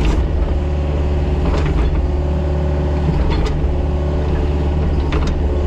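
Mini excavator's diesel engine running steadily, with a few short sharp knocks from the machine as it works.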